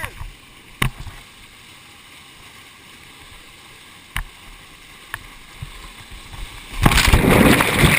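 A few sharp knocks over a faint steady water noise, then a loud, rushing splash about seven seconds in that runs to the end: bodies hitting the water after a jump.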